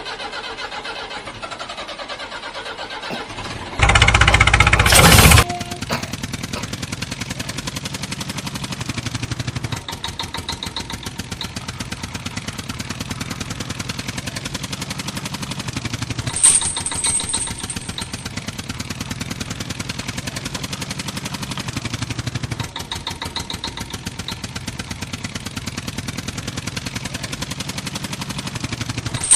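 Small engine of a homemade mini tractor running steadily with a fast, even pulse. A loud burst of noise lasting about a second and a half comes about four seconds in, and there are brief high squeaks near the middle and at the end.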